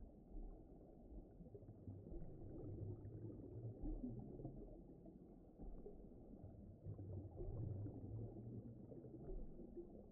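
Faint, low, muffled rumbling ambient background with slow swells in level and no distinct events.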